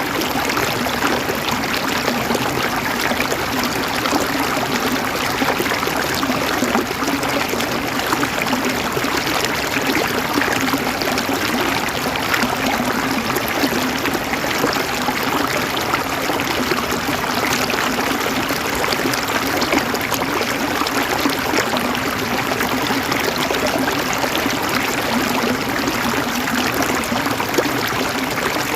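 Flowing water running steadily, an even, unbroken rush and trickle.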